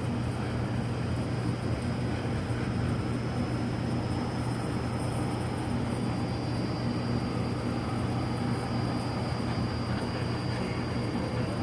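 Steady hiss of an oxy-acetylene torch flame heating a brazed copper joint on a refrigeration compressor to melt the solder, over a low steady hum.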